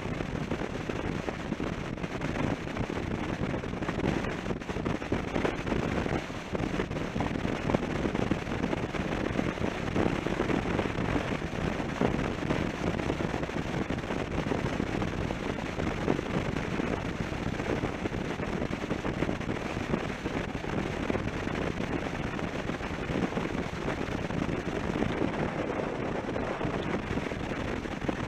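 Riding noise from a Suzuki V-Strom 650 motorcycle at road speed: wind buffeting the onboard microphone with a steady crackle over the road and engine noise.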